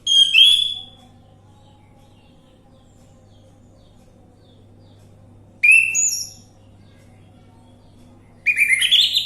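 Orange-headed thrush song: three short, loud, high-pitched phrases of quick varied notes, one at the start, one about five and a half seconds in and one near the end, over a faint steady hum.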